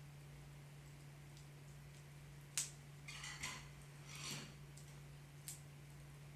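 Wood fire burning in a fireplace, crackling faintly with scattered pops: one sharp pop about two and a half seconds in, followed by a couple of seconds of hissing crackle. A steady low hum runs underneath.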